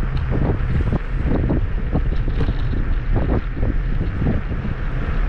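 Wind buffeting the microphone of a moving electric scooter: a steady low rumble with irregular gusts swelling in and out.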